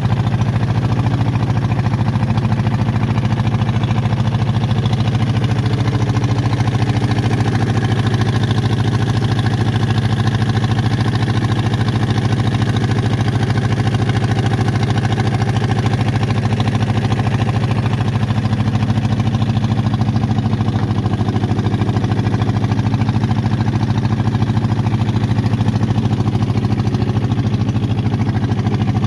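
Small boat engine running steadily at an even speed, as used on a watering boat.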